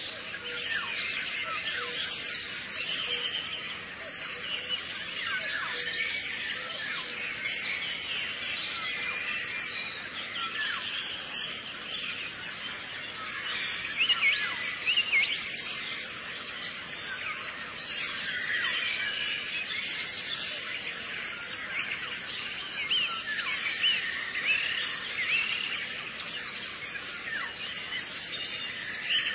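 A chorus of many small birds chirping continuously, with short overlapping calls and quick pitch sweeps.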